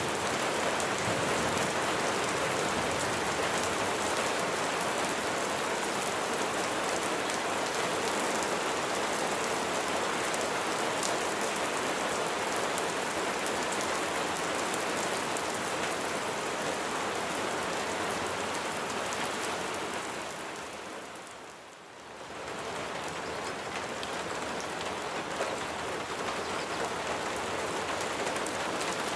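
Steady rain falling, a dense even hiss of raindrops. The sound dips briefly about three-quarters of the way through and comes back up.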